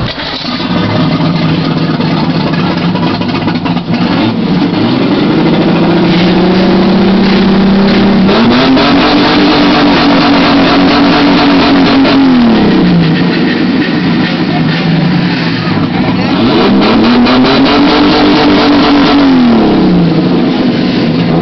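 Ford Falcon engine being revved while standing. The revs climb in steps over the first several seconds, then twice rise and are held high for about three to four seconds before dropping back toward idle.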